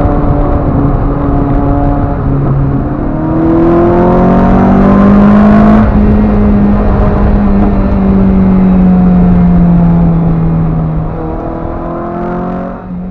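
Car engine under hard acceleration: its note climbs steadily for about three seconds, then holds and slowly drops as the car settles to a cruise, fading out right at the end.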